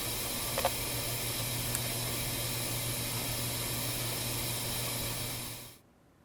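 Dishwasher running in its wash cycle: a steady hiss of water spraying inside the tub over a steady low hum, with a small click about half a second in. The sound fades out near the end.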